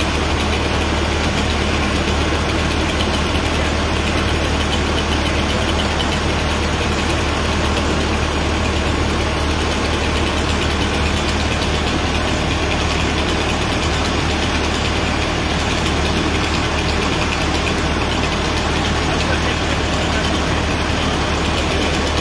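A vehicle engine idling steadily with a constant low hum, mixed with steady outdoor background noise.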